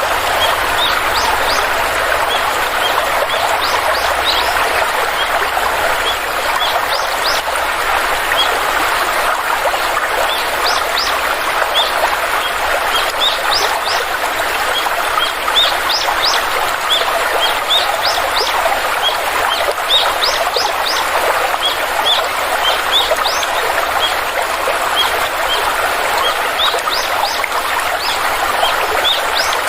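Stream flowing steadily, with birds giving many short, high chirps over the water throughout.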